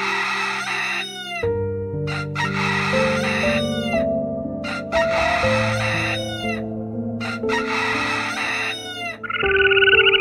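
Australasian swamphen (Porphyrio melanotus) calling over and over, each call a noisy screech about a second long, over soft background music. Near the end a frog's trilling croak starts up.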